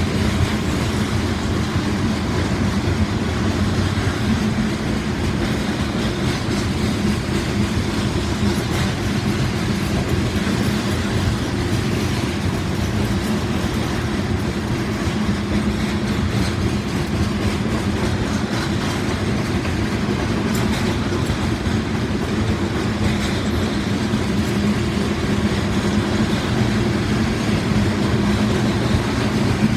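Freight train rolling steadily past, a continuous rumble with the clatter of wheels over the rails.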